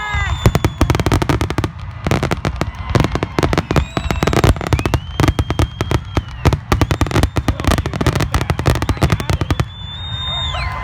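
Fireworks going off in a dense, rapid barrage of bangs and crackling, with a few whistles, typical of a display's finale; the bangs ease briefly just before the end.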